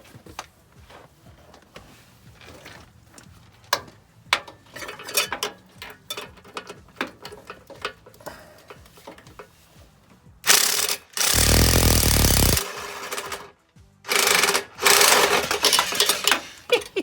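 Socket and tool clicking and knocking at first, then a Kobalt impact wrench with a 15 mm swivel deep-well socket hammering in two runs of about three seconds each, about ten and fourteen seconds in, working on the nuts of the exhaust flange studs.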